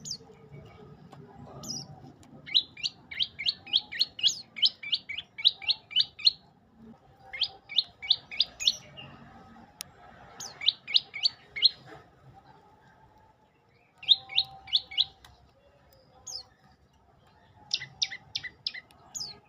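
A prenjak lumut songbird singing in repeated phrases of rapid, sharp chirping notes, about four or five notes a second. There are five bursts with short pauses between them, the longest phrase near the start.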